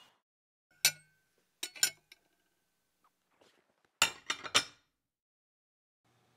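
Cutlery clinking against china plates at a meal: a single clink, then two more close together, and about four seconds in a quick run of four clinks.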